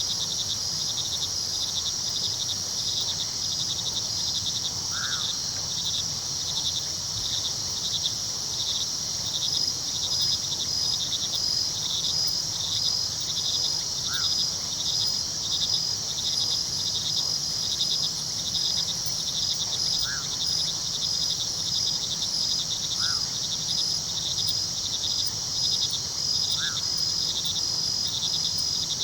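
Night chorus of crickets chirping steadily in rapid, even pulses. A short call sounds every few seconds, about six times, over a low steady rush of flowing river water.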